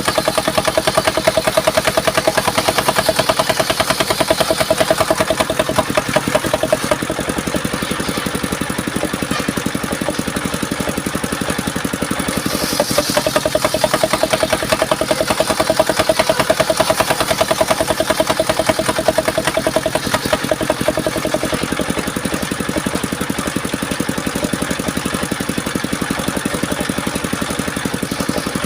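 Engine driving a circular-saw sawmill, running steadily with fast even pulsing, and a ringing blade tone that swells twice, in step with the blade cutting through mahogany.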